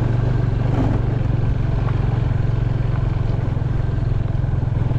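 Motorcycle engine running at a steady speed while riding, with a steady rush of noise over it.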